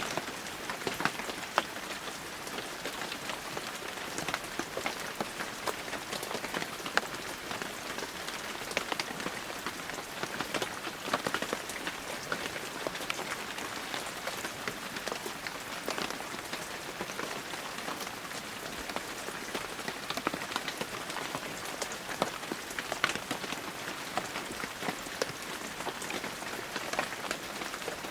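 Heavy rain falling steadily: a dense hiss of rainfall with many distinct drop impacts ticking on nearby surfaces.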